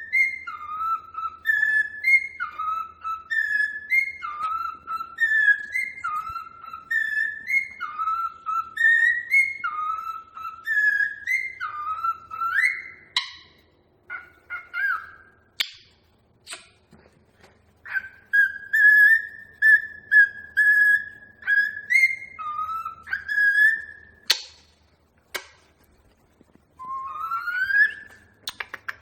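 Cockatiel whistling: a high-then-low two-note phrase repeated about once a second, then broken whistles, a long steady note and a rising whistle near the end, with a few sharp clicks between.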